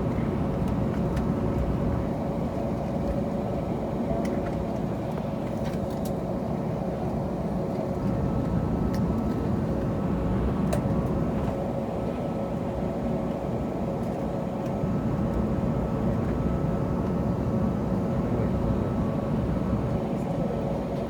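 Airliner cabin noise of an Airbus A321neo with Pratt & Whitney PW1100G geared turbofans at taxi power: a steady drone with a held mid-pitched whine, heard from inside the cabin.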